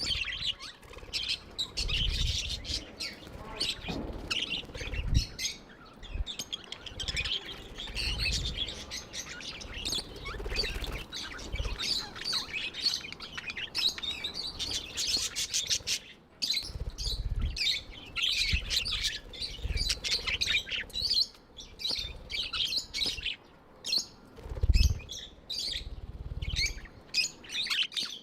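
Budgerigars chirping in a rapid, continuous high chatter, with several dull low thumps at intervals.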